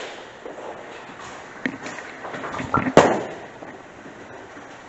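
Bowling ball rolling down the lane and hitting the pins about three seconds in: a sharp crash that dies away, with a few smaller knocks just before it.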